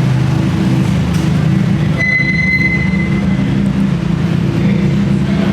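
Car engines running with a steady low rumble in an underground parking garage. About two seconds in, a high squeal sounds for about a second and a half.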